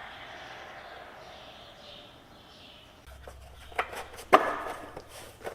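A steady hiss for about three seconds, then a low hum comes in with a string of sharp clicks and knocks, the loudest a little after four seconds in: things being handled and set down at a workbench.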